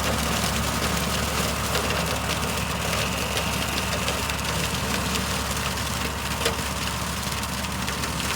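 Engine running steadily, with a single short click about six and a half seconds in.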